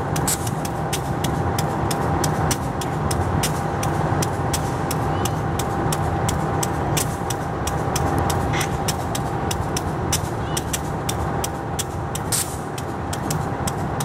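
Freight train of fuel tank wagons rolling slowly on the track: a steady low rumble, many sharp clicks and knocks from the wheels, several a second, and a thin steady tone above it.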